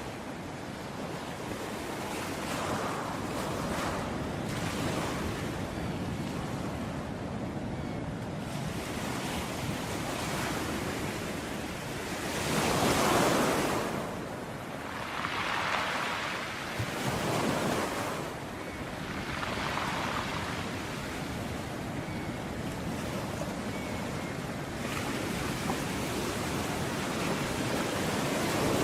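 Ocean waves breaking on the shore: a continuous rushing hiss that swells every few seconds as waves crash, the loudest about halfway through.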